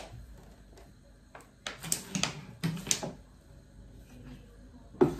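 Household handling sounds in a small room: scattered clicks and knocks, a short run of scraping and rattling about two to three seconds in, and a sharp knock near the end.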